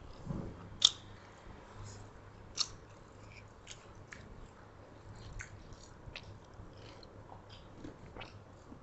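Close-miked eating sounds of rice and meat eaten by hand: chewing and mouth smacks with scattered small clicks, the sharpest about a second in and another a little before three seconds. A faint low hum lies underneath.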